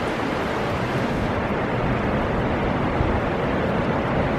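Steady rushing rumble of a Keihan electric commuter train running in toward the platform, mixed with wind buffeting the microphone. The higher hiss over it thins out about a second in.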